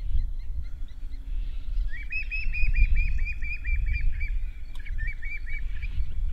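Hamerkop calling a fast run of about a dozen short, sharp, high notes, then after a brief pause a shorter burst of about four more. A low rumble runs underneath throughout.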